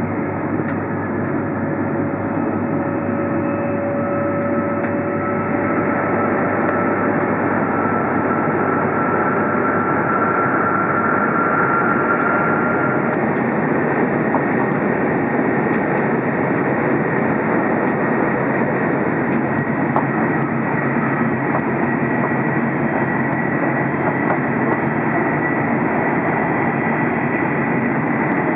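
Tohoku Shinkansen train running at speed, heard from inside the passenger cabin: a steady rushing drone with faint tones that drift slowly in pitch.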